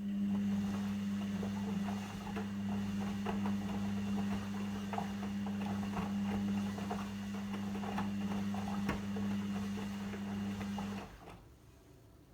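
Logik L712WM23 washing machine's drain pump running with a steady hum and water gurgling through it, cutting off about eleven seconds in.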